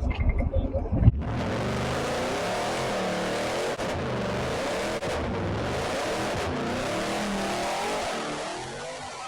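Car engine revving hard, its pitch swinging up and down over a loud rushing noise. It starts abruptly about a second in and fades near the end.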